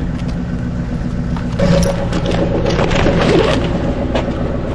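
Truck engine idling steadily, with clicks and knocks of gear being handled and a steady higher tone joining about a second and a half in.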